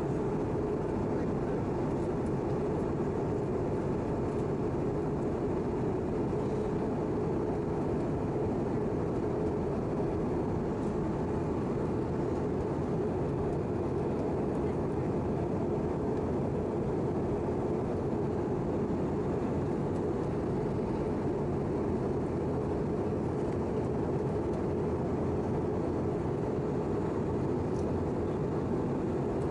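Cabin noise of an easyJet Airbus A319 in flight on its descent toward landing: a steady, even roar of airflow and engine noise, heaviest in the low register, with no change in level.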